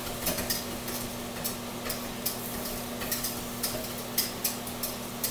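Cooking clatter: metal utensils clinking and scraping against pans and dishes in irregular sharp clicks, over a steady low hum.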